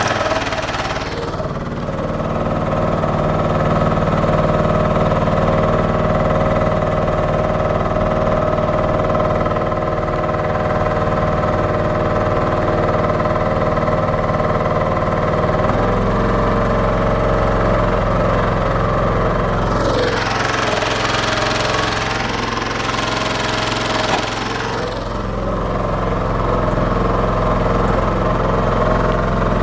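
Yermak swamp mud motor running steadily under load, pushing the boat through dense water lilies. The engine note drops slightly about halfway through, and a louder rushing hiss rises over it for about five seconds near the two-thirds mark.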